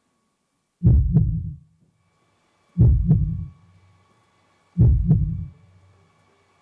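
Amplified heartbeat sound effect: three deep double thumps, lub-dub, about two seconds apart.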